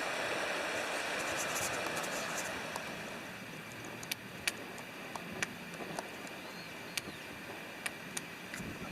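Steady rush of river water that eases over the first few seconds, with sharp crackles and pops of a wood campfire from about four seconds in.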